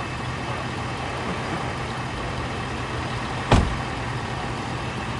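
Vehicle engine idling steadily, with one sharp knock about three and a half seconds in.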